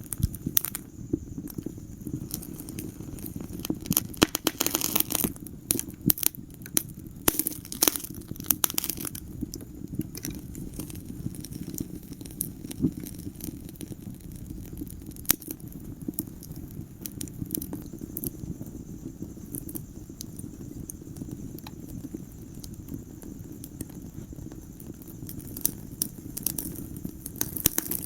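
Wood fire burning in a fireplace: sharp crackles and pops scattered over a steady low rumble of the flames, with the crackling busiest in the first several seconds and again near the end.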